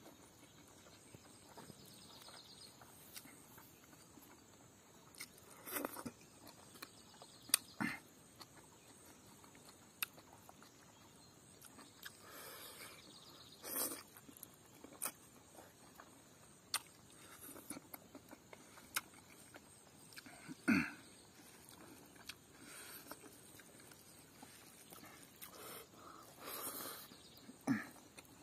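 Close-up eating sounds of a man chewing smoked chicken and rice by hand: chewing and lip smacks, with scattered short clicks and smacks every few seconds.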